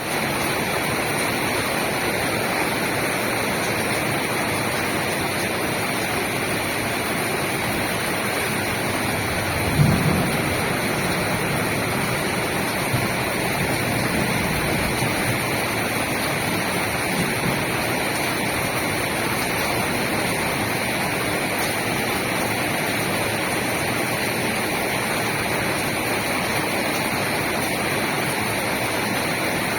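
Steady heavy rain. About ten seconds in there is a short low rumble, the loudest moment, and fainter low swells follow a few seconds later.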